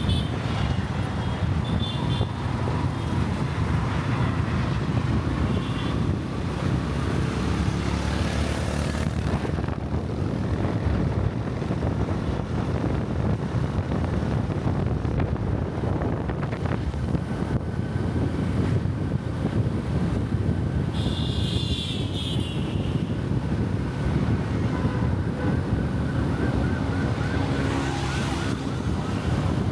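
Dense city traffic heard from a moving bike: a steady low rumble of wind on the microphone and engines. Vehicle horns sound now and then, the loudest a high, many-toned blast about twenty-one seconds in.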